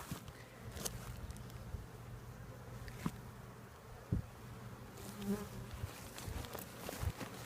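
Honeybees from an opened hive buzzing in a steady hum, with a few light knocks.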